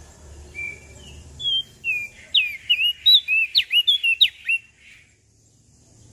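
A small songbird, the prenjak daun of Lombok, singing one phrase of clear whistled notes: a few soft slurred notes, then a quick run of about a dozen sharp down-slurred notes, ending about five seconds in.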